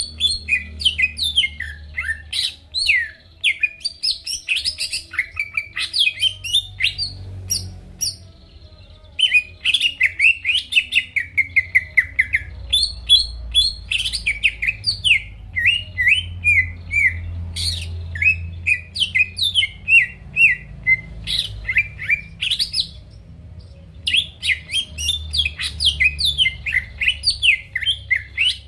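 A cucak ijo (green leafbird) singing loud, fast, varied phrases of chirps and sweeping whistles, broken by two short pauses, with a faint low hum underneath.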